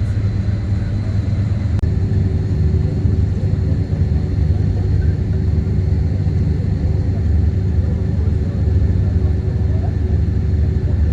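Steady low rumble of a moving vehicle, with a faint steady hum that comes in about two seconds in.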